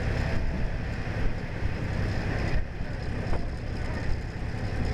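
Passenger train running along the track, heard from an open carriage window: a steady low rumble of the wheels and carriage, with wind buffeting the microphone.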